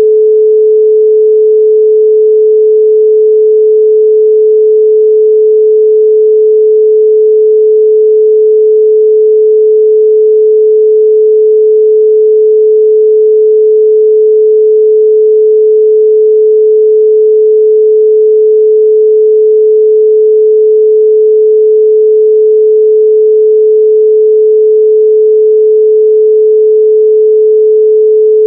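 A continuous 432 Hz pure sine tone: a single unchanging pitch held at a steady, loud level.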